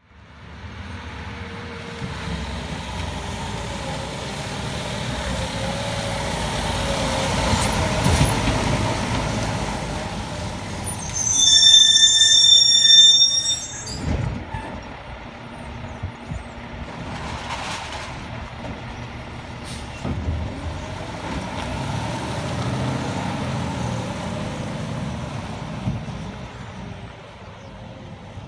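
Garbage truck running and working its route, its engine rising and easing. About twelve seconds in comes a loud, high-pitched squeal lasting a couple of seconds, the loudest moment.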